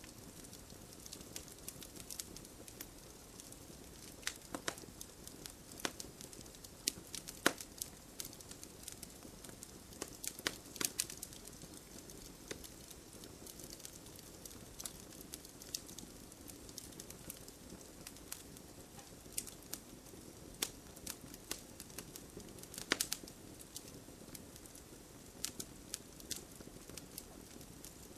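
Wood fire crackling, with a steady low hiss and many irregular sharp pops and snaps scattered throughout. The loudest snaps come about seven and a half seconds in, again around ten to eleven seconds, and near twenty-three seconds.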